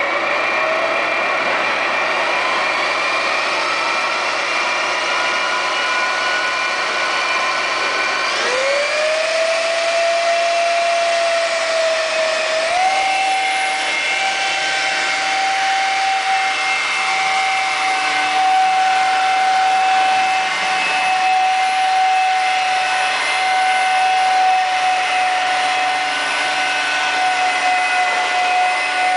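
Electric RC scale helicopter's motor and rotors running with a steady whine. The pitch climbs sharply about eight and a half seconds in, steps up again a few seconds later, and then holds steady as the rotor spools up.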